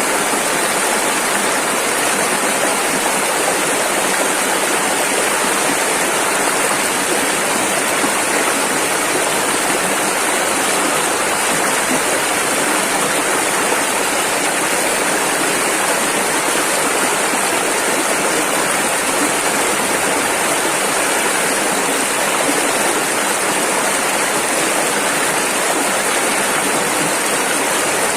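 Rushing river water, a steady, dense rush of white water with no breaks.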